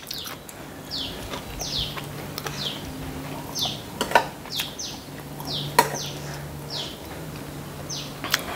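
A bird repeating a short, falling chirp about once a second, with a few sharp clicks of a metal spoon against ceramic bowls and plates.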